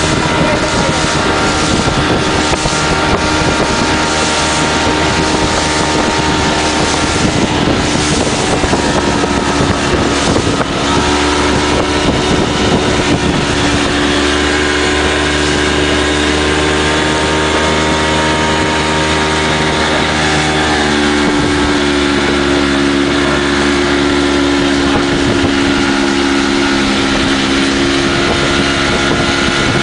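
Speedboat engine running steadily at speed, with rushing noise and wind buffeting the microphone. The engine note shifts slightly about a third of the way in and again about two-thirds of the way in.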